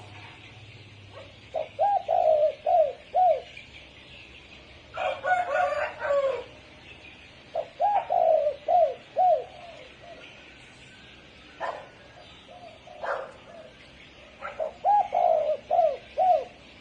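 Spotted dove cooing: three phrases of four or five quick coos each, with a rougher, noisier call between the first two phrases.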